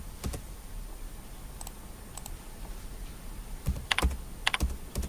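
Computer keyboard keystrokes: a single click near the start, then a short run of louder keystrokes about four seconds in.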